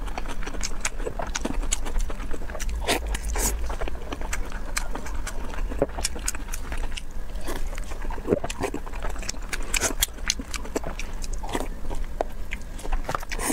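Wet chewing and lip-smacking of someone eating sticky braised pork, with many irregular smacks and clicks.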